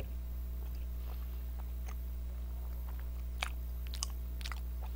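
A person chewing food close to a microphone, with a few faint separate crunching clicks, over a steady low electrical hum.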